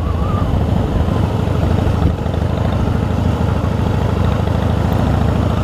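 Harley-Davidson V-twin motorcycle engine running steadily while riding.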